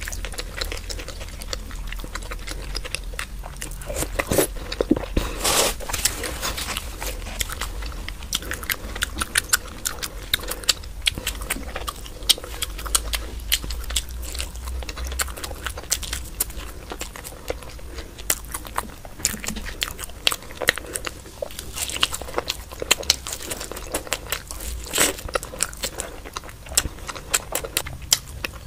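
Close-miked chewing and wet mouth sounds of a person eating soft, milky Indian sweets, with frequent small clicks.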